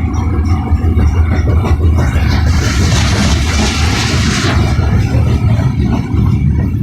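Norfolk Southern freight train rolling past with a steady deep rumble, and a rush of noise swelling for a couple of seconds in the middle.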